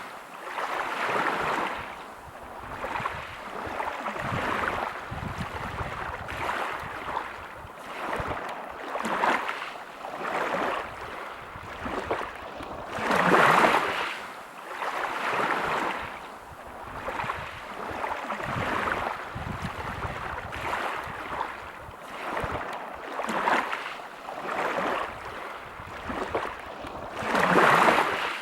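Sea waves breaking on a pebble beach, the surf rising and easing every couple of seconds, with two bigger waves breaking about halfway through and near the end.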